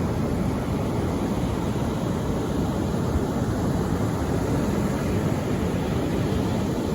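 Steady rushing noise, even and unbroken, heaviest in the low range, with no swells or breaks: a white-noise relaxation track of sea sound.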